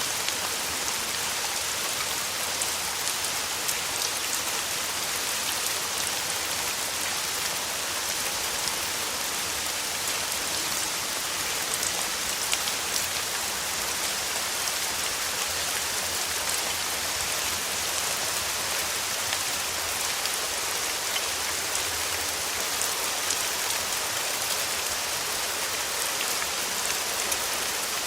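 Steady rain falling, a continuous even hiss with scattered fine drop ticks.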